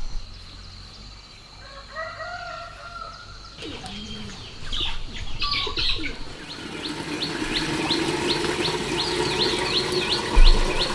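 Birds chirping. From about the middle on, one bird repeats a short high chirp about three times a second over a steady lower drone.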